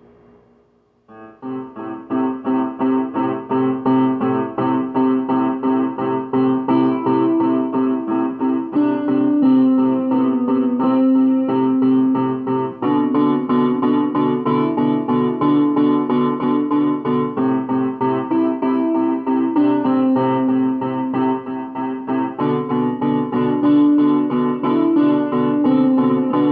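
Piano playing a slow original tune, recorded through an Android phone's microphone. It starts about a second in, with notes struck repeatedly and the chords changing every four to five seconds.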